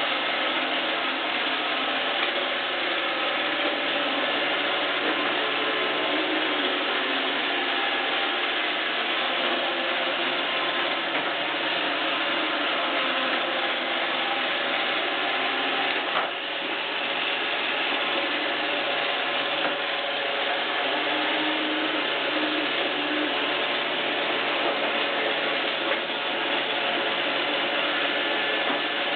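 iRobot Roomba 564 Pet robot vacuum running steadily, its motor and brushes making an even mechanical noise, with one short knock just past the middle.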